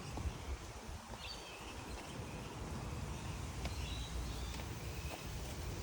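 Outdoor ambience: a steady low rumble with faint short bird chirps, about a second in and again near four seconds.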